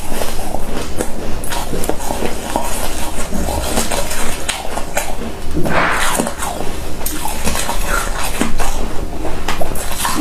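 Freezer frost being chewed and crunched in the mouth: a rapid, dense run of crisp crackles, with one louder burst about six seconds in.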